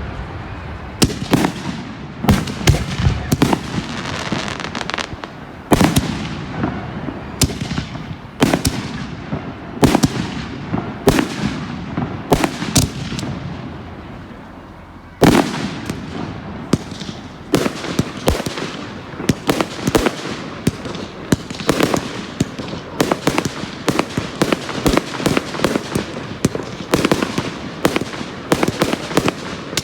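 Display fireworks going off in a barrage of sharp bangs, each trailing off. They come a second or two apart at first; after a louder bang about halfway they follow in quick succession, several a second.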